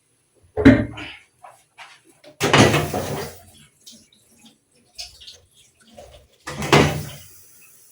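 A metal cooking pot being handled: three loud knocks and clatters with a short scraping tail, about half a second in, around two and a half seconds in, and near the end, with small ticks between them.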